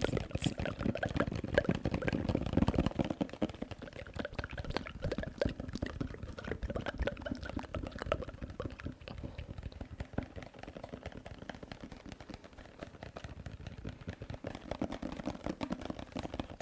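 Close-miked ASMR trigger sounds: a dense stream of small, quick clicks, louder and busier for the first three seconds or so, then softer.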